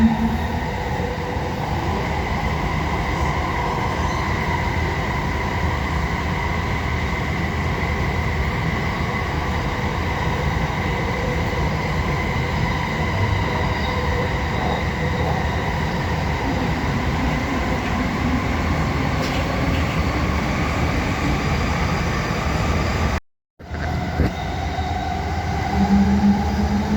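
Passenger train running, heard from inside the carriage: a steady rumble of the wheels on the track, with a faint steady high tone running through it. The sound cuts out completely for a split second near the end.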